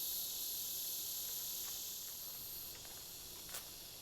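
Steady high-pitched chorus of insects trilling and buzzing, easing off somewhat toward the end, with one small click near the end.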